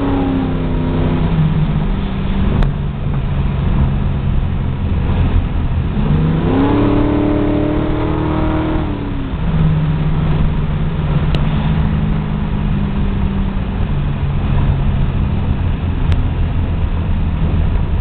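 A 1972 Chevrolet Nova's 383 stroker small-block V8 is heard from inside the cabin, pulling along on the street. The revs drop just after the start and then run steadily. About six seconds in they climb quickly, hold for a moment and fall back around nine seconds, and the engine then cruises evenly.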